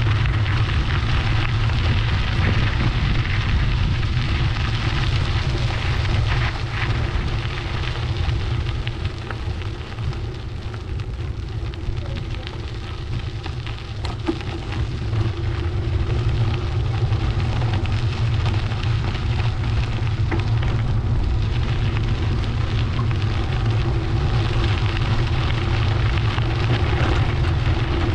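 Wind buffeting the microphone of a camera on a moving bicycle, a steady low rumble with road noise, easing for a few seconds in the middle.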